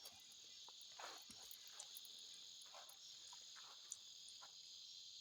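A faint, steady, high chorus of crickets and other night insects, with a few faint short sounds and a small click about four seconds in.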